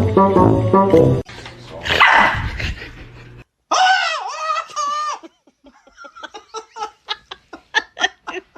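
A dog vocalizing: one wavering, whining call lasting about a second and a half, then a quick run of short yips or barks, about four a second, that grow louder toward the end. Brief music plays before a cut about a second in.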